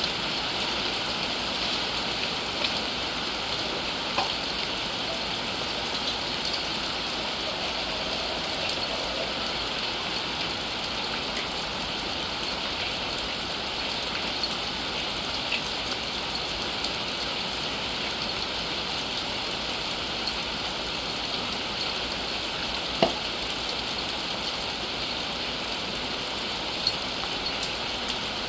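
Steady rain falling, with scattered drops ticking on a surface and one sharper drip about 23 seconds in.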